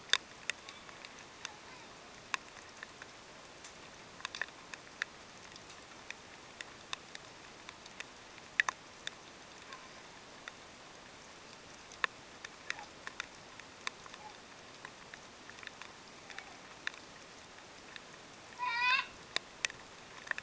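Rain dripping and pattering: irregular sharp ticks of falling drops over a steady hiss. Near the end a young child gives one short, high-pitched squeal.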